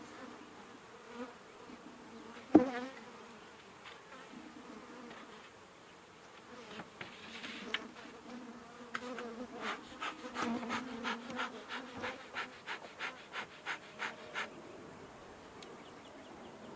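Honeybees buzzing around an opened Langstroth hive, with a sharp knock about two and a half seconds in and a run of quick clicks, about two a second, through the middle and later part.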